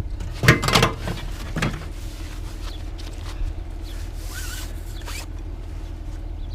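Short zip-like rasps and clatter of gear being handled, over a steady low engine hum.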